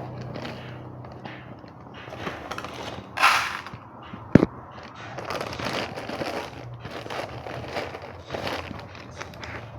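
Close-miked eating of basmati jeera rice: irregular wet chewing and mouth clicks, with a louder hissy burst about three seconds in and a sharp click a second later.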